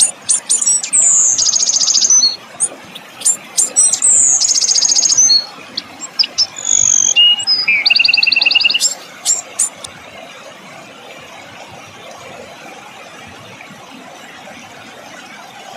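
Songbird singing sharp, harsh chip notes and fast rattling trills, with a falling whistle among them: the 'tembakan' shots and rolls prized in masteran tutor song. The singing stops about ten seconds in, leaving a steady hiss.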